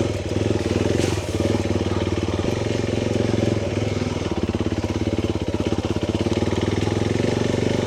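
Motorcycle engine running steadily under way, its firing pulses close and even, with a brief rush of noise about a second in.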